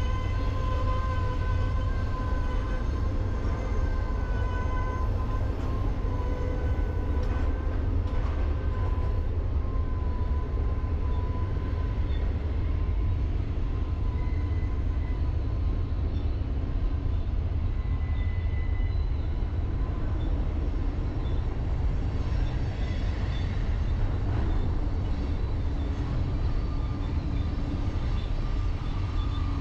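Freight train rolling past with a steady low rumble of cars on the rails, and a few thin, steady high-pitched tones whining above it.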